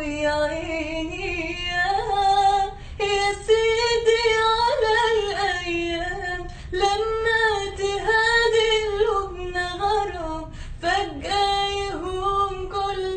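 A woman singing an Arabic song solo, with long held notes that bend and waver in ornamented runs, without words that can be made out.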